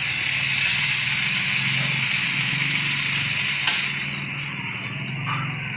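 Water spinach sizzling in a hot aluminium wok with a little water added, a steady hiss, as it is stirred with a spatula; one small click of the spatula against the pan about four seconds in, and a low steady hum underneath.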